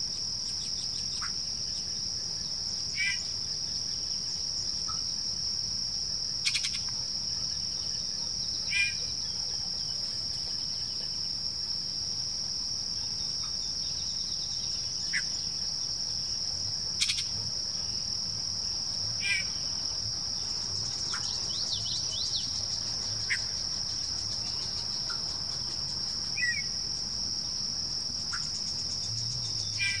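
Yellow-breasted chat singing: short separate whistles, clucks and sharp clicks every couple of seconds, with a quick run of notes about two-thirds of the way through. A steady high insect drone runs underneath and is the loudest sound throughout.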